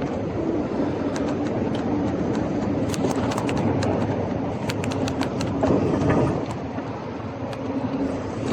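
Scott Scale Gravel 10 gravel bike rolling over a rough street surface: a steady rumble of the tyres with many sharp rattling clicks from the bike.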